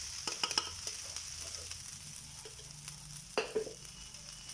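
Grated coconut and spices sizzling steadily in coconut oil in a nonstick pan as cooked raw jackfruit pieces are scraped in from a bowl. A few sharp clicks of utensils against the bowl and pan come about half a second in and again a little after three seconds.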